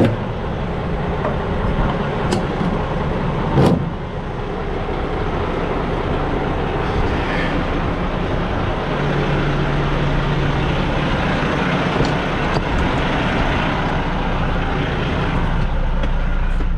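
Diesel semi truck engine running steadily, with a couple of sharp clicks in the first few seconds.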